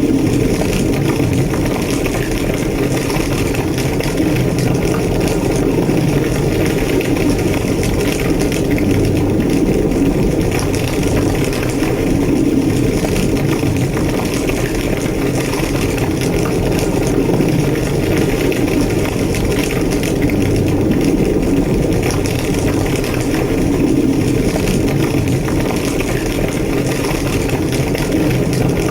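Large fire burning steadily, a constant low roar with fine crackling through it.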